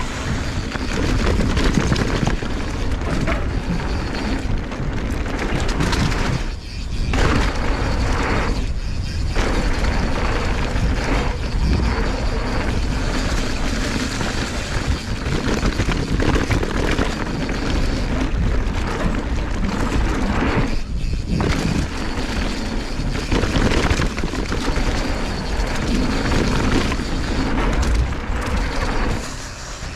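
Mountain bike descending a dirt trail at speed: wind buffeting the action-camera microphone over the rumble and rattle of the tyres and bike on the ground, with a few brief lulls.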